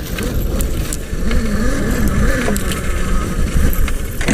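Electric dirt bike being ridden over a rough snowy trail: steady rumble and rattle from the bike and its mount, with scattered sharp clicks and knocks.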